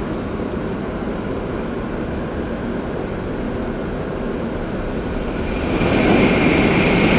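Shinkansen train running at speed: a steady rumble that grows louder about six seconds in, with a high hiss rising over it.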